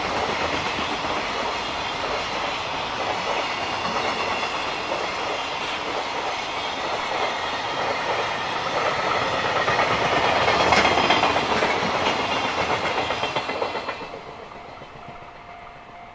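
JR Freight container train running past over the rails, its wheels clacking and rumbling; the noise grows louder for a few seconds after the middle, then falls away sharply about fourteen seconds in. A steady ringing tone from the level crossing's warning bell is left behind.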